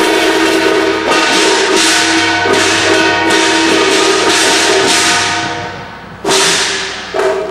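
Cantonese opera percussion: loud metallic strokes, probably gongs and cymbals, struck one after another, each ringing on and slowly dying away. The ringing fades about six seconds in, then two fresh strokes come close together near the end.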